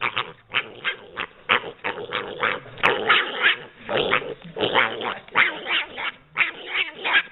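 A dog vocalizing in a rapid run of short growls and barks, about two a second.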